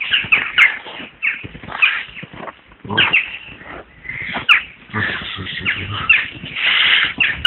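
Birds calling: a busy run of short, sharp, downward-sweeping calls, many in quick succession.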